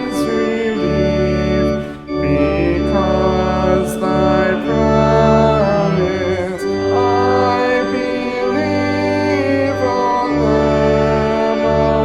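Church organ playing a slow hymn in sustained chords over held bass notes, with a congregation singing along.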